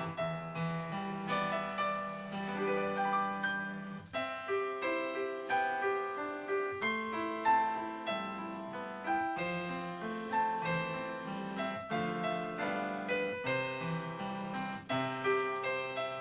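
Solo piano playing a slow, gentle melody over chords, the notes struck and left to fade.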